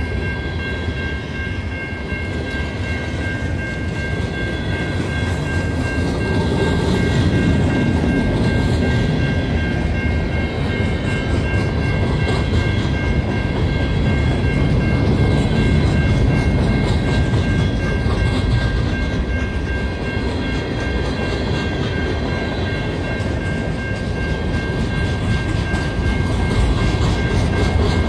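Freight train rolling past, its railcars making a steady, heavy rumble on the rails, with a steady high-pitched ringing tone held over it.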